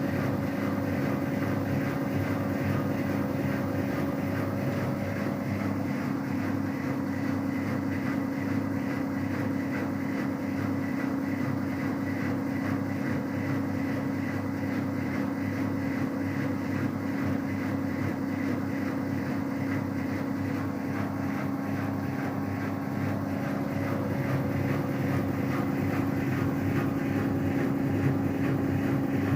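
Whirlpool FCSR90425 washing machine in its 600 rpm spin with an unbalanced load, a steady motor-and-drum drone with a constant hum.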